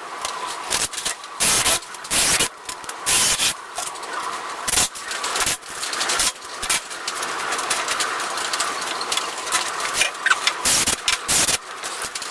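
Construction work on a wooden frame: a string of short, irregular noisy bursts, sometimes several a second, over a steady background hiss.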